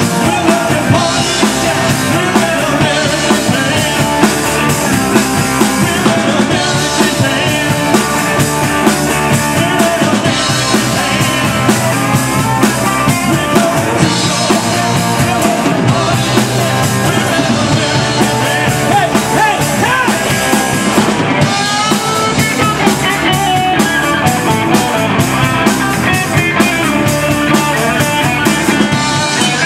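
Rock band playing live, with a drum kit keeping a steady beat under the rest of the band.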